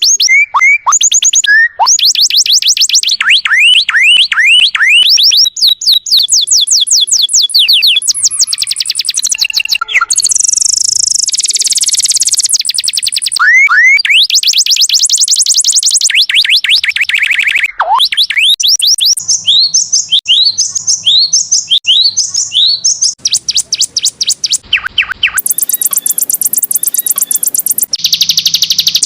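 Domestic canary singing a long, continuous song of rapid trills and fast series of short down-slurred notes, one phrase after another, as in a canary tutor recording.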